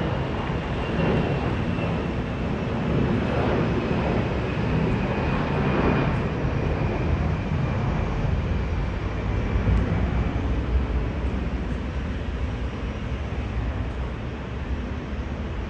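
Jet airliner engines, a steady rumble with a faint high whine, slowly fading over the last few seconds.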